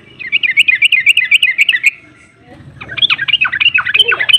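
Yellow-vented bulbul (trucuk) singing loudly: a fast chattering run of chirpy notes for about two seconds, then, after a short pause, a rapid string of sharp falling notes, about five a second.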